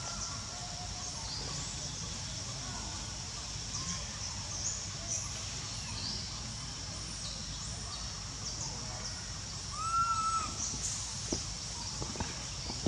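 Outdoor animal calls: many short high chirps over a steady high drone, with one louder arched call about ten seconds in and a few sharp ticks near the end.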